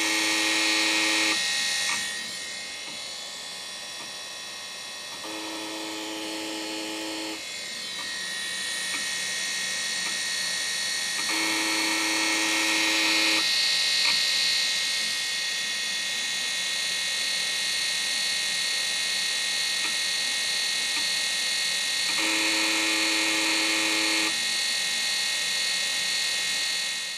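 Failing Seagate ST31013A 1 GB IDE hard drive trying to format: a steady high whine from the running drive, broken four times by a low buzz lasting about two seconds each, the first already sounding at the start and the last near the end. The drive is dying, with thousands of bad sectors.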